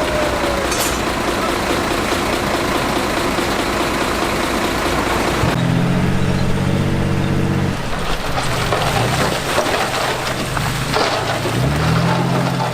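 Heavy construction machinery engines running. About five and a half seconds in, the sound changes abruptly to a deeper engine note, and near the end the engine pitch rises and falls.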